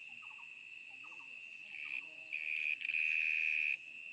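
A steady high insect drone, swelling louder for a little over a second in the middle, with faint short clusters of quick chirps repeating about once a second beneath it.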